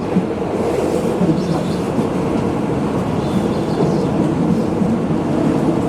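Steady low rumble heard inside a tram.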